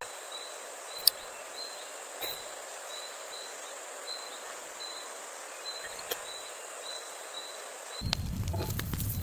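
Outdoor nature ambience: a steady high hiss with a short high chirp repeated about twice a second at one pitch, from a small animal such as an insect or bird, and a few sharp clicks, the loudest about a second in. Near the end this gives way to a lower, louder rushing noise with crackles.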